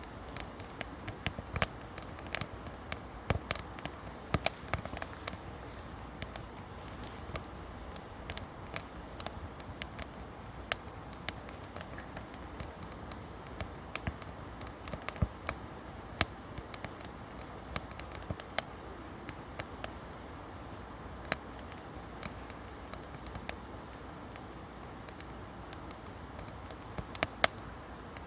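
Firewood burning in a campfire, crackling and popping irregularly over a soft steady hiss. The pops come thickest in the first few seconds, with a couple of sharper ones near the end.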